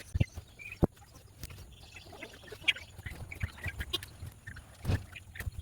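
Birds feeding at a bird table: irregular sharp taps and knocks, a few heavier thumps, and short bird calls between them.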